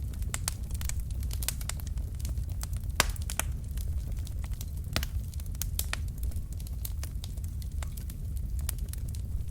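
Wood fire of burning logs crackling in a fireplace: irregular sharp pops and snaps, several a second, over a steady low rumble of the flames, with the loudest pop about three seconds in.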